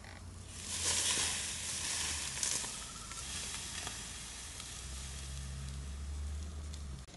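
Food sizzling in a hot pan, surging about a second in as it meets the hot metal, then easing to a steadier sizzle over a low steady hum.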